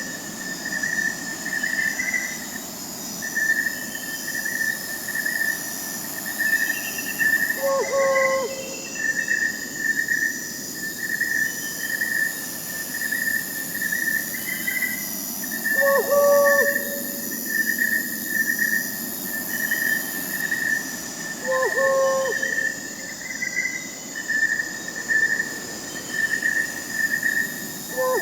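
Crickets chirping in a steady pulsing trill over a higher insect buzz. An owl gives a short low hoot roughly every seven seconds.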